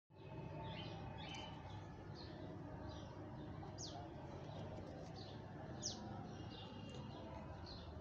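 Birds chirping faintly, short high falling chirps about once a second, over a low steady background hum.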